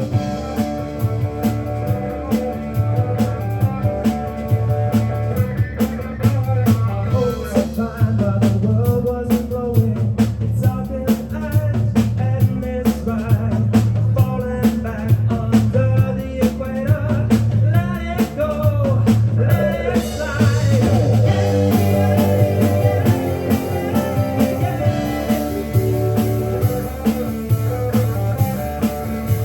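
A live rock band playing: electric guitars, bass guitar and drum kit, with a steady pulsing bass line. About twenty seconds in, the cymbals and upper range grow brighter and fuller.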